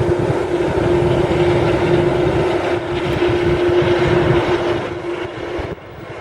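Jet engine noise from an arriving WestJet Boeing 787-9 Dreamliner: a steady, loud rumble with a held hum. It drops away sharply for a moment near the end.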